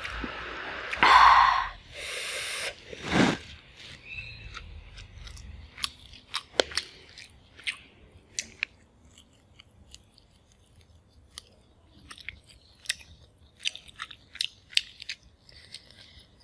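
Close-miked eating by hand: chewing and biting of food, with a few louder crunching or rustling noises in the first few seconds, the loudest about a second in, then many small sharp mouth clicks of chewing.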